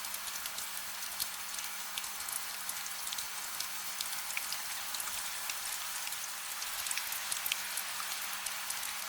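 Steady gentle rain without thunder: an even hiss with many individual drops ticking sharply on a surface.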